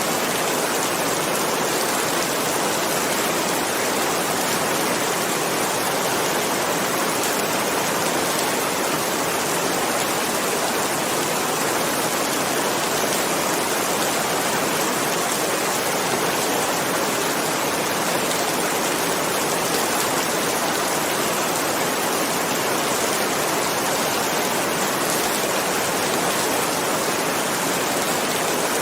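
Steady heavy rain falling: an even, unbroken hiss with no thunder.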